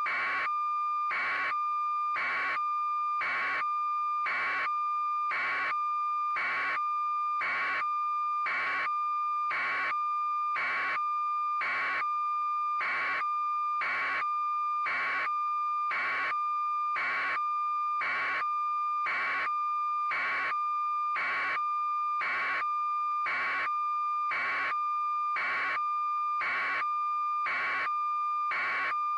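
Electronic signal: a steady, unbroken high tone with short beeps pulsing evenly about once a second.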